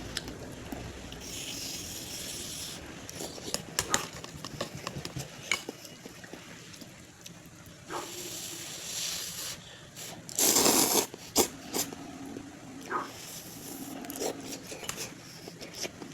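Eating noises: noodles and okra being slurped and chewed, with small clicks from utensils or the mouth, a few hissy slurps, and a louder noisy burst about ten seconds in.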